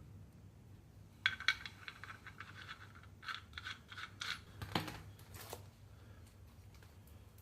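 Small metal parts and hand tools clinking and scraping: two sharp clicks about a second in, a run of light clinks, then a louder knock and a short scrape.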